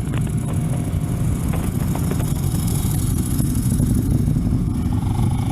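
Kawasaki Ninja 650R's parallel-twin engine running steadily, with wind hiss, heard from a helmet-mounted camera.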